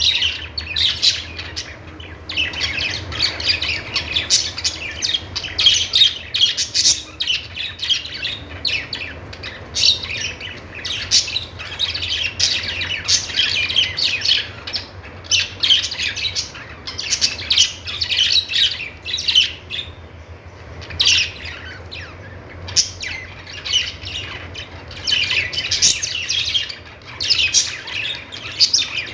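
Budgerigars chattering and chirping: a dense, continuous stream of short, sharp warbles and squawks from several birds.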